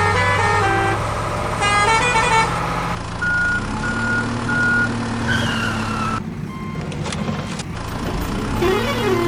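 Cartoon vehicle sound effects: a steady engine hum under short melodic horn tunes in the first couple of seconds. Three short beeps follow a few seconds in, then a falling tone, and a wavering up-and-down tone starts near the end.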